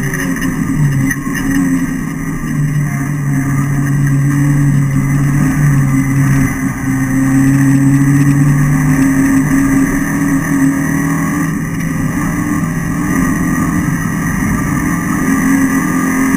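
Renault Clio Sport race car's four-cylinder engine heard from inside the cabin, running hard at high revs. Its pitch holds, then steps up and down as the driver changes gear.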